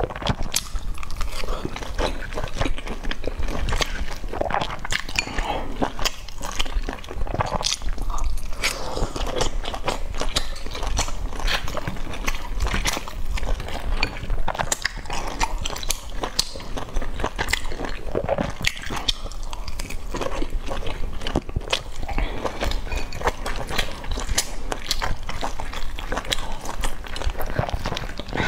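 Close-miked eating of soft boiled dumplings dipped in chili sauce: wet chewing, smacking and slurping mouth sounds with many small irregular clicks throughout.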